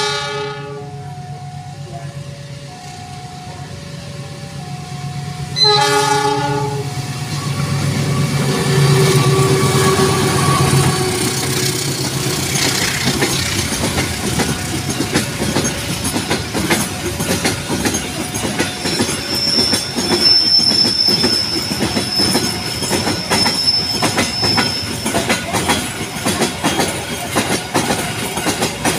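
A train passing a level crossing. Its horn sounds at the start and again, louder, about six seconds in, over the low running of the locomotive's diesel engine. A two-tone crossing warning signal alternates steadily throughout. After that the wagons clatter by in a steady clickety-clack, with a high wheel squeal lasting several seconds in the middle.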